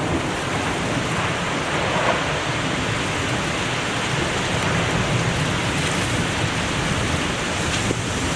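Storm wind blowing hard in gusts of up to 70 mph, with rain, as a steady loud rushing and a heavy low rumble of wind buffeting the microphone.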